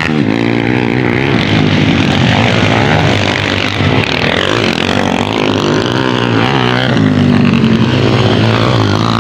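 Several motocross bike engines running and revving together, their pitches rising and falling as the riders work the throttles.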